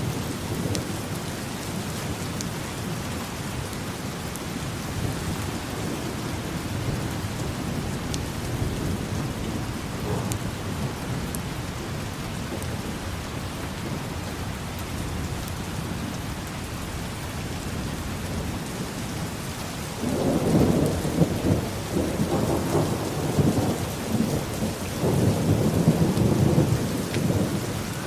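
Steady rain falling, with thunder rumbling under it; a louder, longer roll of thunder comes in about two-thirds of the way through.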